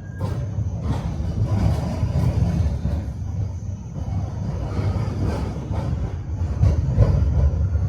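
Tram running along its track: a steady low rumble of the car, with irregular knocks and clicks as the wheels pass over rail joints.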